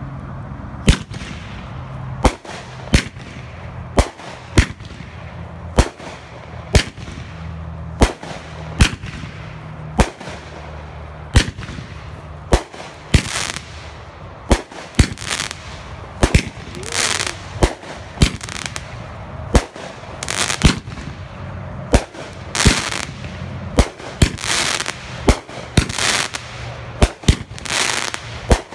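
Consumer fireworks going off: a long series of sharp bangs about one a second as shots burst overhead. From about halfway on, longer hissing, crackling bursts mix in.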